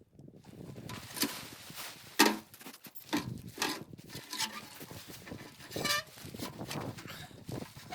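Several short pitched animal calls, spaced a second or so apart, the loudest about two seconds in.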